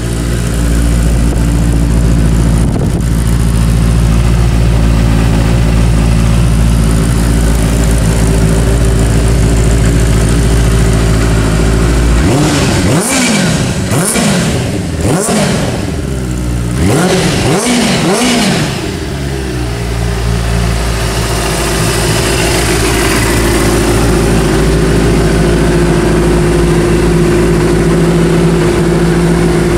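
DSK Benelli TNT 600i's in-line four-cylinder 600 cc engine idling, blipped several times in quick succession about halfway through, each rev rising and falling, then settling back to a steady idle.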